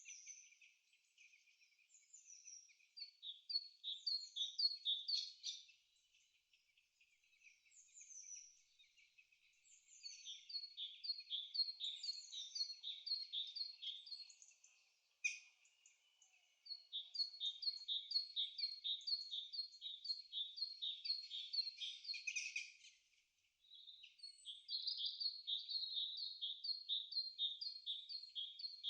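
Bird song: runs of quick, high repeated chirps at about three a second, with some downward-slurred notes between them and short pauses between the runs. A single sharp click about halfway through.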